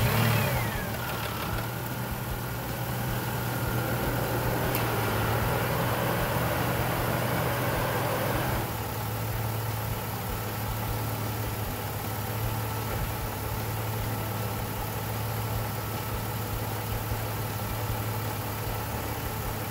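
A 2006 Jeep Liberty's 3.7-litre V6 idles just after being started on fresh oil, run to fill the new oil filter. A whine falls in pitch over the first second or so, then the idle runs steadily, easing slightly about nine seconds in.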